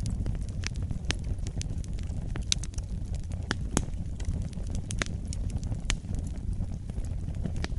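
Wood fire burning in a fireplace: a steady low rumble of the flames with irregular sharp crackles and pops from the burning logs, a few louder pops scattered through.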